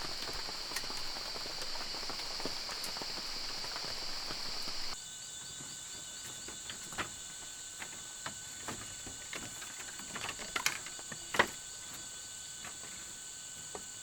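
Insects in the rainforest droning in a steady high-pitched chorus. About five seconds in it changes abruptly to a quieter, higher-pitched chorus. Scattered clicks and snaps sound throughout, the loudest about eleven seconds in.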